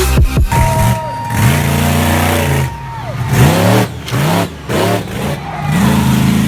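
Monster truck engine revving in a series of throttle surges, pitch climbing and falling back several times, with brief gaps between revs.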